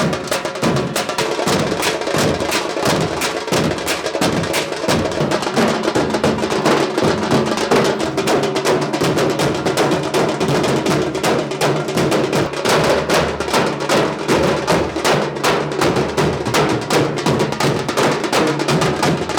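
Drum troupe playing a fast, dense rhythm of rapid strokes without a break.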